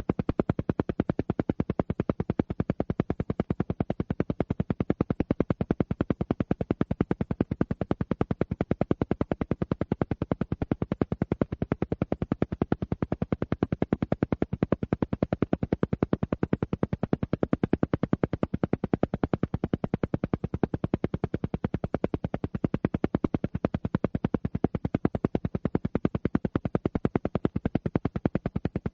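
Steady, rapid pulsing at roughly ten even pulses a second, an alpha-rate pulsed sound track of the kind used for brainwave entrainment.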